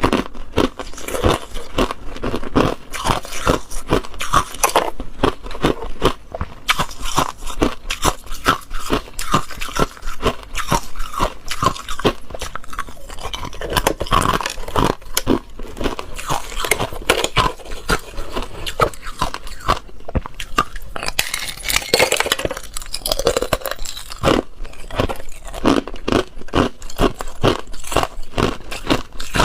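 Ice being bitten and chewed, close up: a dense, irregular run of hard crunches and cracks. Around two-thirds of the way in there is a short hissing, scraping stretch.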